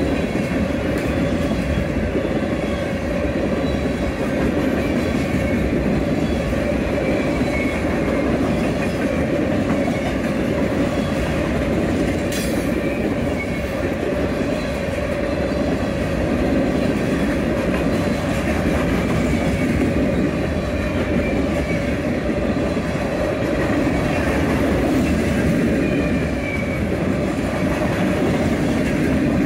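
Empty grain train's freight cars rolling past on the rails, a steady loud running sound with a couple of faint, brief high wheel squeals.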